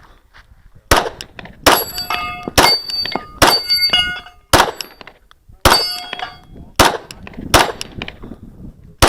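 Glock 34 9mm pistol firing a string of about nine shots, roughly one a second, with several hits followed by the ringing of struck steel targets.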